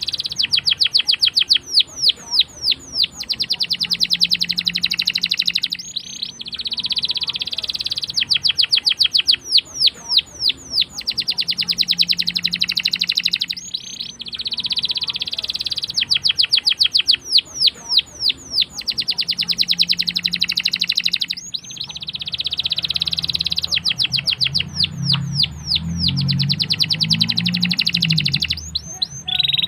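Domestic canary singing long rolling trills: fast runs of repeated notes and buzzy rolls, broken by a short pause about every seven to eight seconds.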